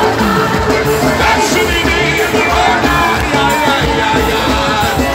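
Live worship band playing loudly with singing over it, while the congregation cheers and shouts.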